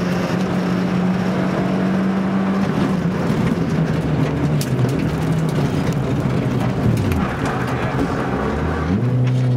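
Suzuki Swift GTi's four-cylinder engine, heard from inside the cabin under hard driving. It is held at high, steady revs at first, then the revs fall away and waver lower, and they swing up and down again near the end.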